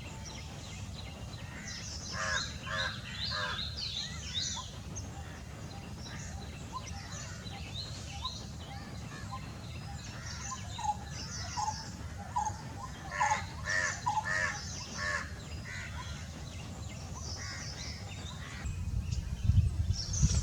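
Several wild birds calling over one another: short chirps, high trilling notes and harsher calls, busiest a couple of seconds in and again around two-thirds of the way through. Underneath is a steady low rumble that swells near the end.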